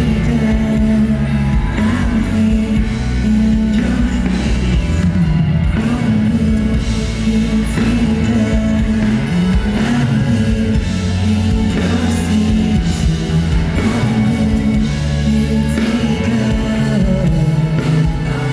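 Live pop-rock band music with a male lead singer, played loud over a concert sound system in a large hall.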